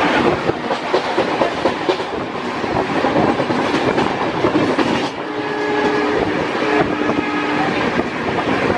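Passenger train running at speed, heard from an open carriage doorway: a steady rush with wheels clattering over the rail joints. The horn sounds for about two seconds a little past halfway.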